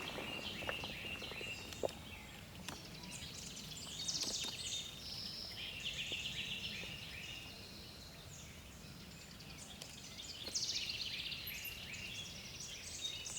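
Several wild birds singing at once: overlapping chirps and quick trills, louder about four seconds in and again a little past ten seconds, with a faint click or two near the start.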